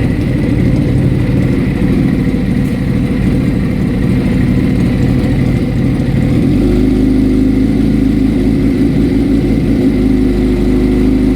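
2001 Kawasaki ZZR600's inline-four engine running through a Danmoto conical exhaust at a steady idle; about six and a half seconds in, the note changes and turns smoother and more even.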